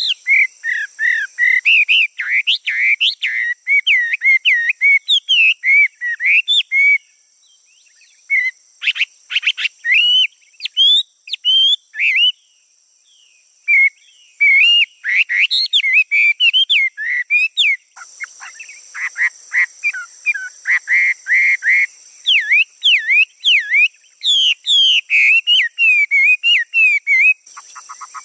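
A male songbird singing a long, varied song of quick whistled and chirping notes that glide up and down in pitch, with short pauses about seven and twelve seconds in. From about eighteen seconds a steady high-pitched hum runs behind the song.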